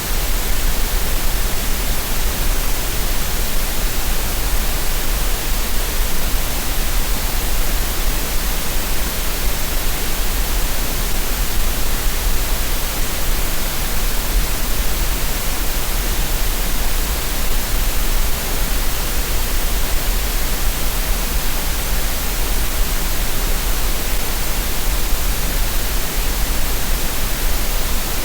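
Synthetic green noise: a steady, unbroken hiss spread evenly across low and high pitches, with no changes or events.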